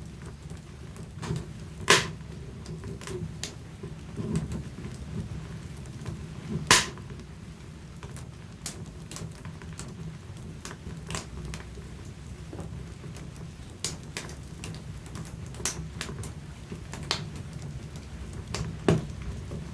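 Wood fire burning in a fireplace: irregular crackling and snapping over a low steady rumble, with two loud pops about two and seven seconds in and another near the end.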